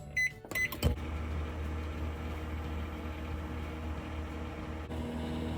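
Microwave oven keypad beeping twice, then a click about a second in as the oven starts, followed by its steady low running hum.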